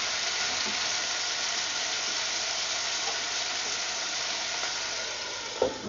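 Frog legs, onion and tomato sizzling steadily in a hot sauté pan just after a splash of vinegar and water, with a spatula stirring at first.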